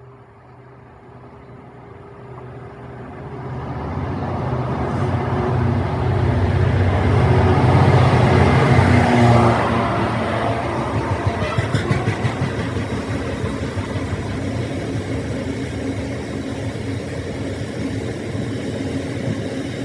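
A train arriving, its engine drone growing louder over several seconds, loudest about halfway through, then running on steadily with a low hum.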